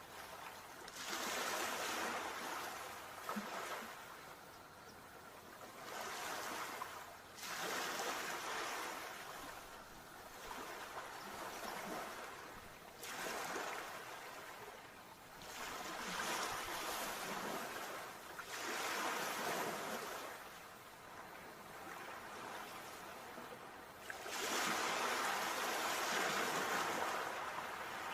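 Sea waves breaking and washing up the shore in repeated surges of rushing water every few seconds, the loudest surge near the end.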